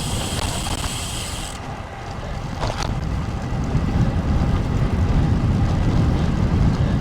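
Strong gusty wind buffeting the microphone while riding a road bike, a steady low rumble mixed with road noise. A higher hiss over the first second and a half stops abruptly.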